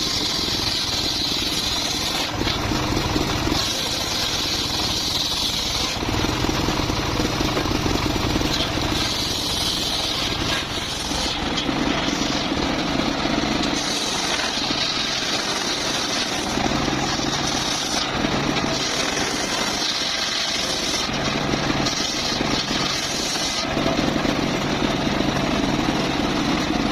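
Circular saw running and cutting mahogany timber, a steady machine noise whose tone shifts every few seconds as the blade goes into and out of the wood.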